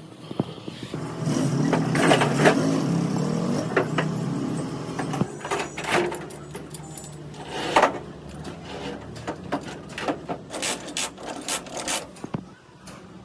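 Workshop work sounds: repeated sharp metallic clinks and knocks of tools and metal parts being handled, busiest in the first half.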